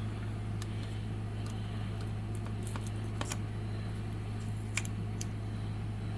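Scattered light clicks and taps from a die-cast toy car being handled, over a steady low hum.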